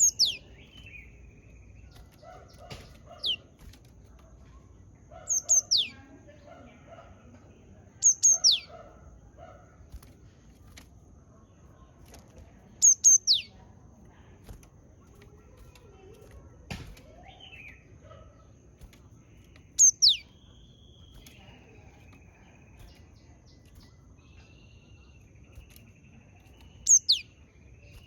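Japanese tit calling: short, high notes that slide steeply downward, mostly in quick pairs, about seven times at uneven gaps of roughly three to seven seconds, with fainter chirps in between.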